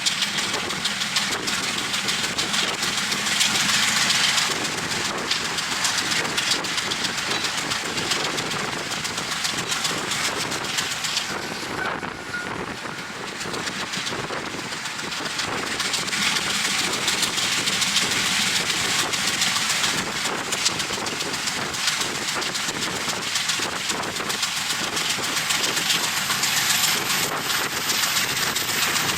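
Passenger train running, heard from beside an open window: a steady rush of wind on the microphone over the rumble of the train, easing a little about twelve seconds in.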